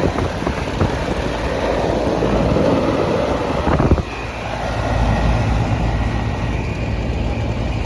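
Outdoor air-conditioning condensing units running with wind buffeting the microphone. About four seconds in there is a knock, and after it a steady low hum and a faint high whine hold.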